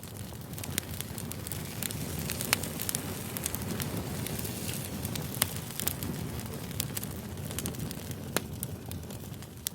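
Steady crackling hiss with scattered sharp pops, fading in at the start and fading out near the end.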